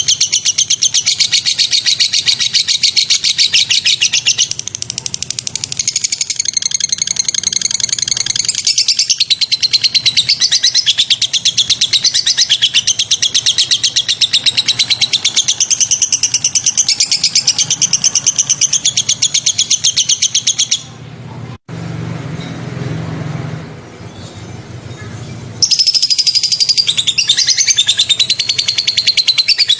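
White-rumped shama singing in fast, sharp, rapidly repeated notes, the 'tembakan' phrases used in tutoring recordings. About two-thirds through, the song breaks off for about four seconds, leaving a low hum, then resumes.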